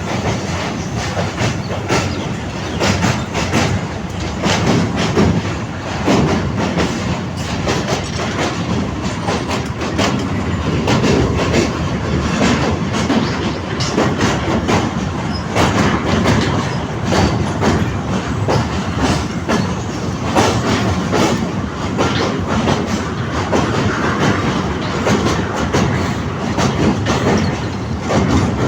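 Madhumati Express passenger train running at speed: a steady loud rumble of wheels on rails with a dense, irregular clickety-clack of the wheels over rail joints.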